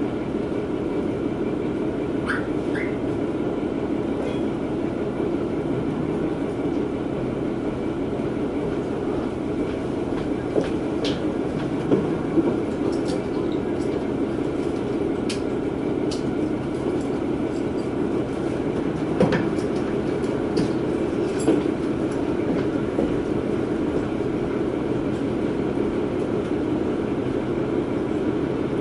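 JR West KiHa 120 diesel railcar running along the track, heard from inside the car: a steady rumble of engine and wheels with scattered sharp clicks from the rails, and a couple of brief high squeaks about two seconds in.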